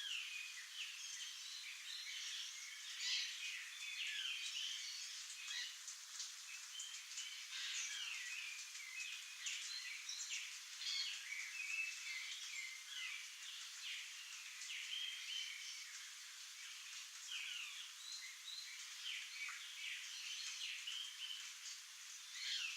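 A busy chorus of many birds chirping and trilling, a steady run of short high calls overlapping throughout with no low notes.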